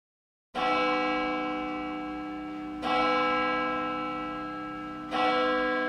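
A bell struck three times, about two and a half seconds apart, each stroke ringing with many overtones and slowly fading.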